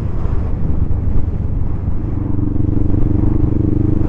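Motorcycle engine running while riding; about halfway through its note settles into a steady hum.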